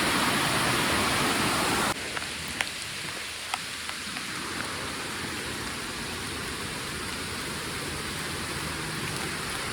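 Heavy rain falling in a steady hiss. About two seconds in it drops suddenly to a quieter rain sound, with a few sharp drips standing out soon after.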